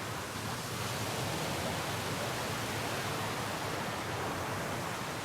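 Steady rush of a small waterfall, river water spilling over low limestone ledges.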